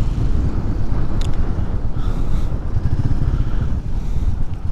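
Royal Enfield Meteor 350's single-cylinder engine running steadily as the motorcycle is ridden, with a dense low rumble.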